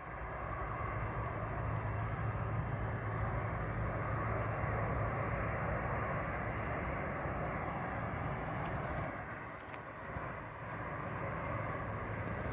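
Jet airliner passing low overhead, its engine roar rising fast, staying loud for several seconds, then easing off near the end.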